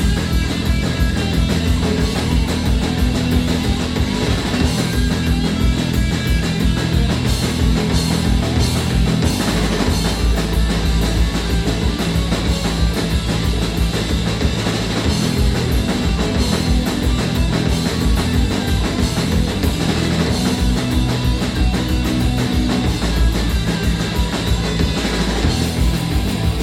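Live punk rock band playing an instrumental break: distorted electric guitars, bass and a driving drum kit, loud and steady.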